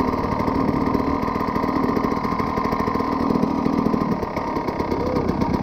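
KTM EXC 300 two-stroke single-cylinder dirt bike engine running as the bike is ridden, a fast, even engine note that gets a little quieter about four seconds in.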